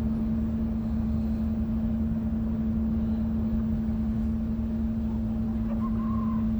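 A small motor running at a constant speed: an even hum over a low rumble.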